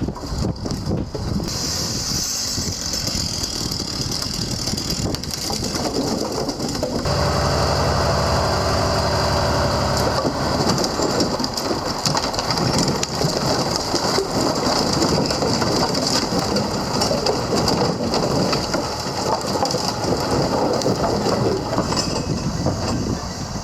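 Heavy truck engine running under load with mechanical rattling and clatter; a steadier engine tone comes in about seven seconds in.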